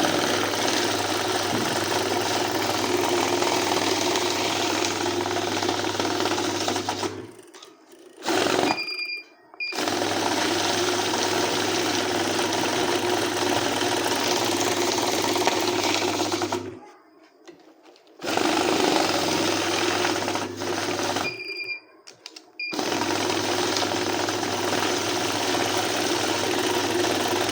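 Electric banknote-counting machine running in long stretches, its motor and rollers whirring steadily as notes feed through. It stops three times, and a short high beep sounds twice during the pauses.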